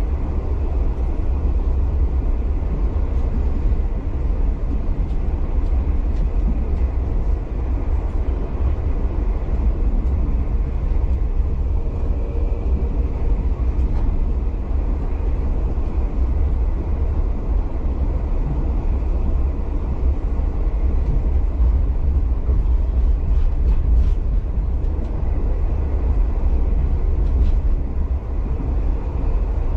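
V/Line passenger train running along the line, heard from inside the carriage: a steady, loud rumble of wheels and running gear, heaviest in the low bass.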